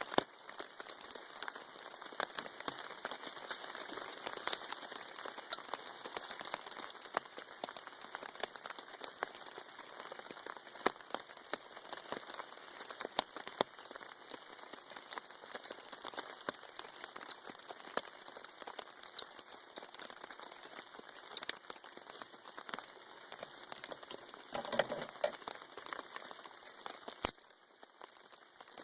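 Rain falling on a tarp overhead, a steady hiss with scattered sharp drip ticks, under crinkling handling noises. A short busier burst of crinkling comes about 25 seconds in, and a sharp click follows a couple of seconds later.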